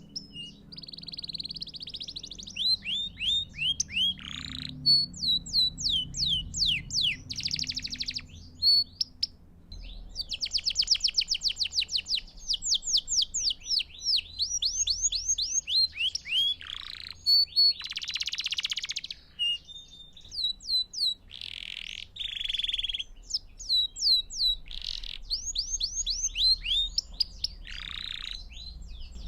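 Belgian canary singing a continuous song: rapid trills and runs of quickly repeated notes that each sweep downward, broken by short harsh, buzzy phrases and brief pauses.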